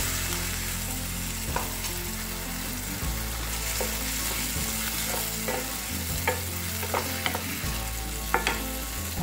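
Tomatoes and green peas sizzling in hot oil in a stainless steel kadai while a wooden spatula stirs them. The spatula knocks lightly against the pan a few times, more often in the second half.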